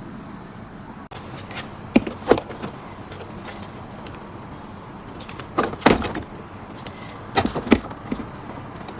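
Items being set into a refrigerator, knocking and clattering in short pairs: twice about two seconds in, a cluster near the six-second mark and twice more near the end, over a steady low background hum.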